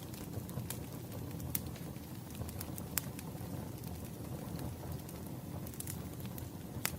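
Wood fire burning steadily with a low rush and sharp, irregular pops and crackles about once a second.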